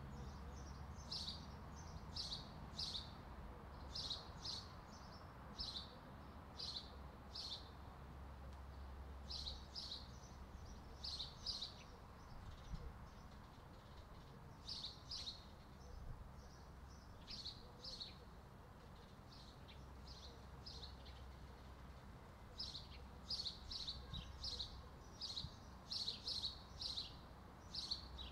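Small birds chirping: short high chirps, singly and in quick runs of two or three, with a few quieter stretches, over a faint low rumble.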